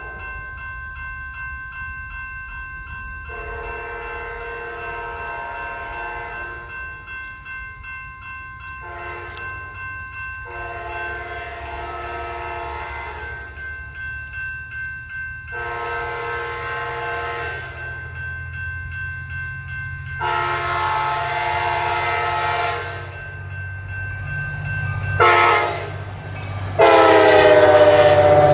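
Locomotive horn sounding a series of blasts that grow louder as the train approaches, the last ones in the long-long-short-long grade-crossing pattern. The final long blast is the loudest and drops slightly in pitch as the train passes. Under it runs the low rumble of the train.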